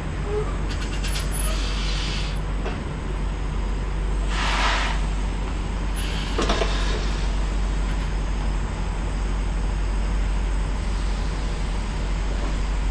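Semi truck's diesel engine running steadily at low speed, with several short hisses of air from the air brakes while the rig is manoeuvred in reverse.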